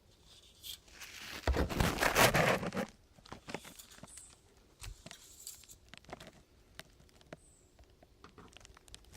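Handling noise while checking an engine oil dipstick: a loud, noisy rub lasting about a second and a half, then scattered small clicks and taps.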